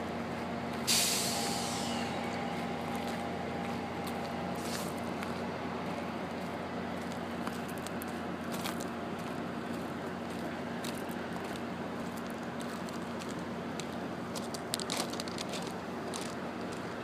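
Steady mechanical hum from an Amtrak passenger train's cars, with a sudden hiss of released air about a second in that fades away over about a second. Scattered light clicks come near the end.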